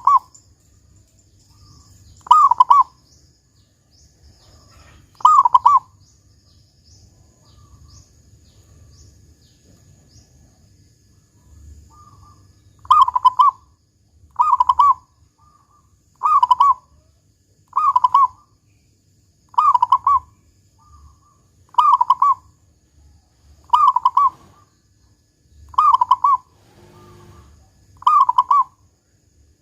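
Zebra dove (perkutut) cooing: short, loud coo phrases repeated, three about every three seconds, then a pause of several seconds, then a steady run of coos about every two seconds.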